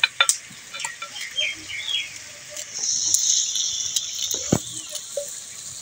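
Onions and garlic sizzling as they fry in a clay kadhai, the sizzle swelling for about a second and a half in the middle. Over it come small clicks and snaps of a knife cutting greens by hand, one sharper knock, and a few short high chirps early on.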